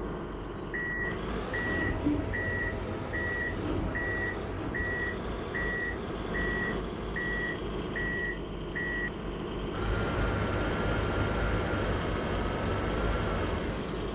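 A heavy diesel truck running with its reversing alarm beeping eleven times, about one beep every 0.8 s. The beeping stops, and about ten seconds in the engine gets louder with a steady whine for about four seconds.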